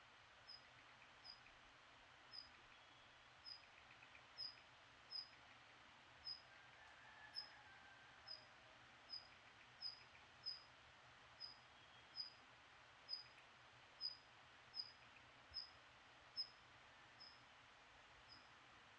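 A small songbird repeating one short, high chirp roughly once a second, with fainter calls from other birds behind it at dawn.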